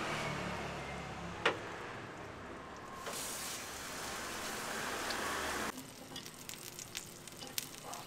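Stuffed dough buns frying in shallow oil on a flat round griddle, sizzling steadily, with one sharp click about a second and a half in. About two-thirds of the way through the steady sizzle gives way to quieter, scattered spitting crackles and pops of the hot oil.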